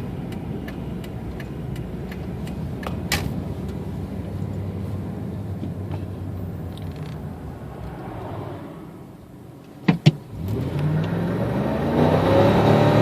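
A 1998 Ford F-150's 5.4-litre Triton V8 idles steadily. About ten seconds in there are two sharp clicks, then the engine revs up hard with a rising pitch as the truck launches from a stop.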